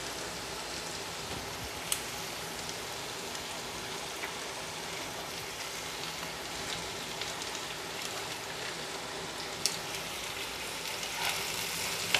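Chopped onions sizzling in hot oil in a frying pan, a steady hiss, with two sharp clicks, about two seconds in and near the end.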